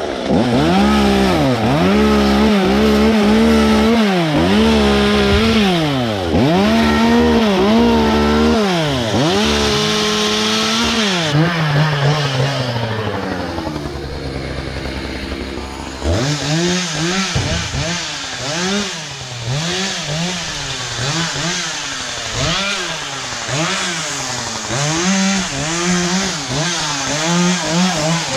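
Gasoline chainsaw engine revving up and dropping back again and again, about once a second, loud; partway through it settles lower for a few seconds, then goes on with quicker, smaller revs.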